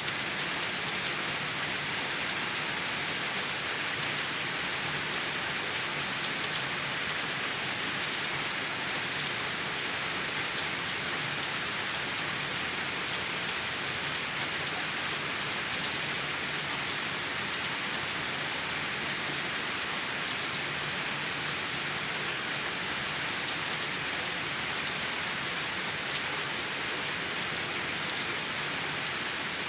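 Rainwater running and gurgling behind a house, with steady rain falling and scattered drips.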